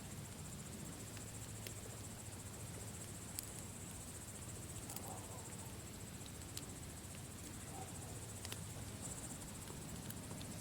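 Campfire crackling, with scattered sharp pops over a soft low rumble of burning, under a steady high trill of crickets.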